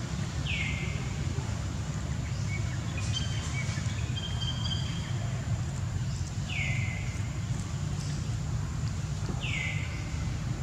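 A bird repeats a short downward-sliding call three times, a few seconds apart, with a few fainter chirps between them. A steady low rumble lies underneath.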